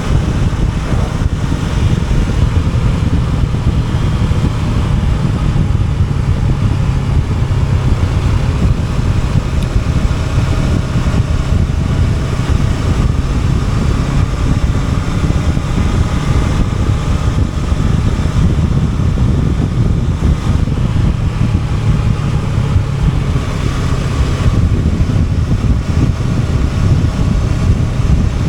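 Honda NX500's parallel-twin engine running steadily on the move, with wind noise on the microphone.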